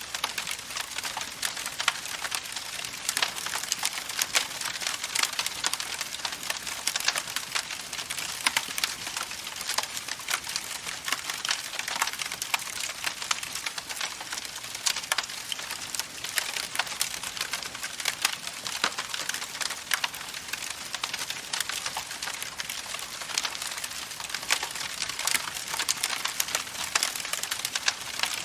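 Campfire crackling: a steady hiss with dense, irregular pops and snaps of burning wood.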